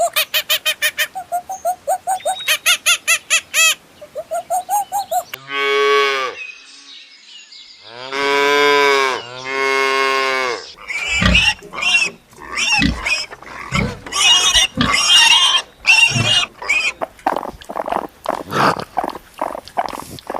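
A run of farm animal calls: about five seconds of short, quick, high calls repeating several times a second, then three long, loud calls, then a stretch of short irregular calls and grunts.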